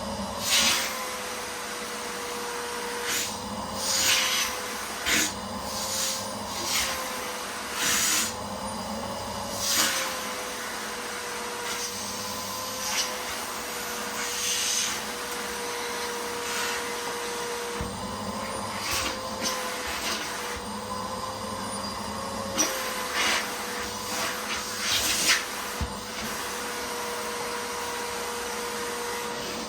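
Miele vacuum cleaner running, its motor whine steady and wavering slightly in pitch. Repeated short crunchy crackles, every second or two, as debris is sucked up the nozzle.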